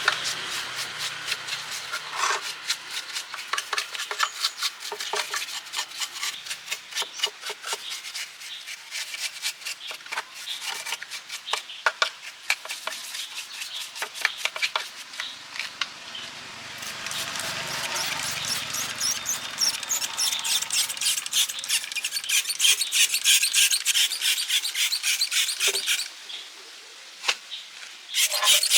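Rapid, repeated rubbing strokes against a hard surface, several a second, like hand scrubbing or sanding. The strokes grow denser and louder about halfway through and stop abruptly near the end.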